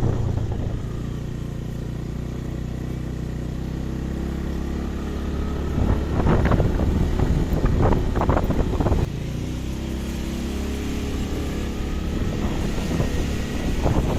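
Vehicle engine running on the road with wind across the microphone; a louder, rougher stretch of traffic noise comes in about six seconds in and drops off sharply near nine seconds.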